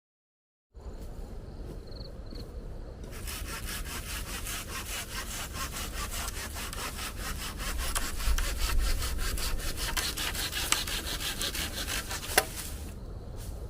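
A saw cutting through wood in quick, even back-and-forth strokes. The sawing starts about three seconds in and stops shortly before the end, with a sharp snap or click near the end.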